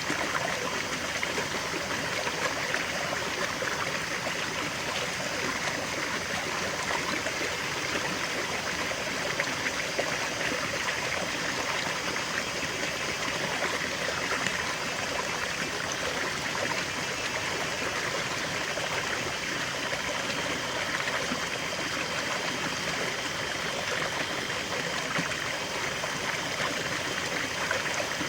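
River water flowing and babbling over rocks, a steady rushing with a trickling edge.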